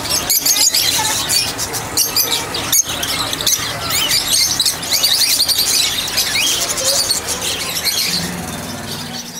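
Many small caged birds chirping and squealing at once, a dense high-pitched chatter that thins a little near the end.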